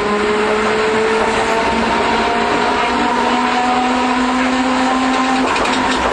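An older Iyo Railway streetcar running, heard on board. Its traction motors whine in several tones that climb slowly in pitch as the tram gathers speed, over a steady rumble of wheels on rail. The whine drops away about five and a half seconds in, as power is shut off.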